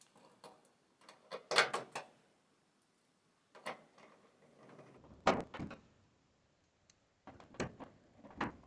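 Scattered knocks and short clatters of hands, screws and a screwdriver working on a dryer's sheet-metal cabinet. The loudest clatter comes about a second and a half in, with a sharp knock about five seconds in.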